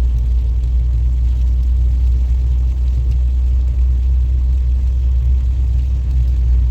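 Steady low rumble of a vehicle running, with no change in pitch or level.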